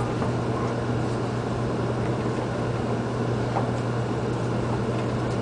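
Steady low hum inside a train carriage, with a few faint clicks.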